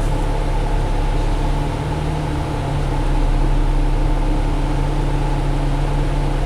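Inside the cabin of a 2017 Alexander Dennis Enviro500 double-decker bus under way: steady drone of its Cummins ISL diesel engine mixed with road noise. The sound dips briefly about two seconds in, then holds steady.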